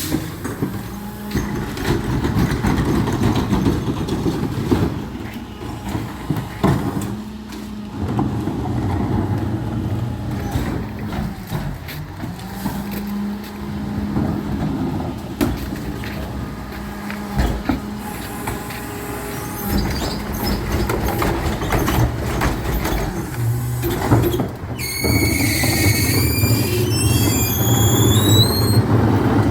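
Recycling truck at work: its engine runs steadily under repeated clanks and knocks. Near the end a high whine rises in steps.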